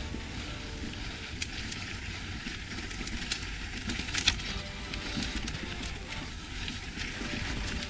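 Mountain bike riding along a dirt trail: steady tyre and wind rumble with scattered sharp clicks and rattles from the bike.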